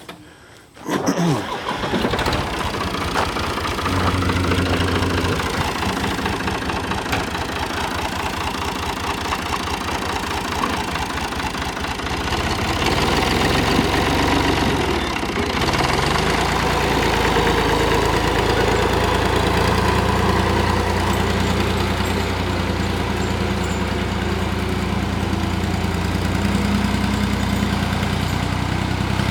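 Ford tractor engine starting about a second in and then running steadily, getting louder about four seconds in and again around the middle.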